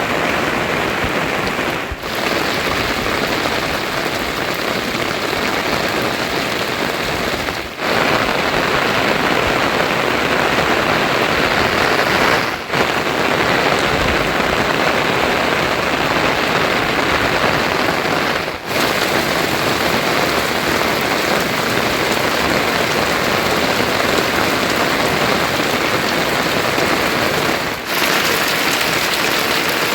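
Heavy monsoon rain falling steadily as a dense, even hiss, with a brief drop in level a few times.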